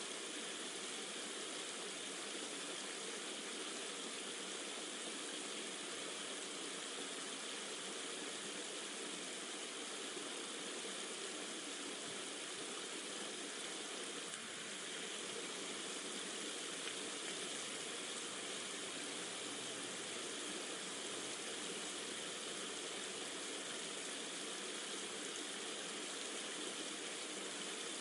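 Steady rushing water of a rain-and-stream nature ambience: an even hiss without drops or splashes standing out.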